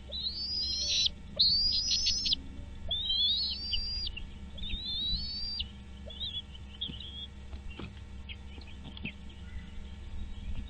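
A bird giving a series of high, whistled calls, each rising and lasting about a second. They come roughly once every second and a half, then break into softer, shorter notes about halfway through.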